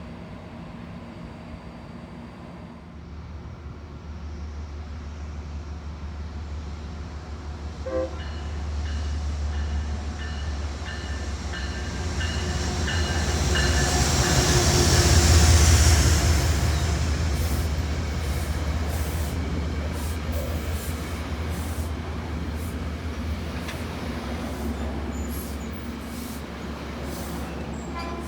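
A train approaching and passing, its low rumble building to a peak about halfway through and then easing off. Its horn sounds for several seconds before the loudest point, and wheels click over the rail joints as the cars go by.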